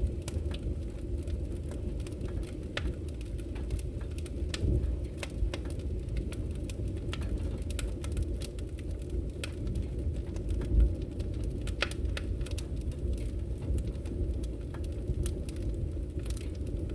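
Wood fire burning in a fireplace: a steady low rumble of the flames with frequent irregular crackles and pops, a sharper pop about eleven seconds in.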